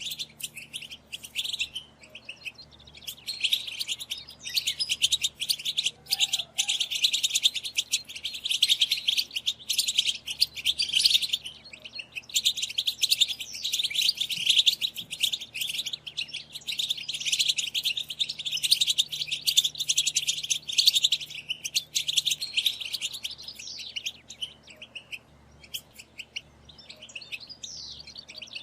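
A group of European goldfinches chattering and twittering in dense, rapid calls. There are short breaks about 2 s and 12 s in, and the calls thin out near the end.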